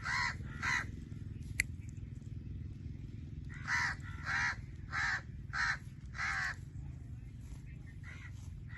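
Blue-fronted amazon parrot squawking: two short calls right at the start, then a run of five calls about half a second apart from about three and a half seconds in. A single sharp click comes between them, over a steady low hum.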